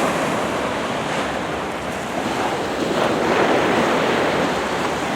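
Small ocean surf breaking and washing onto the shore in a steady rush that swells a little about three seconds in.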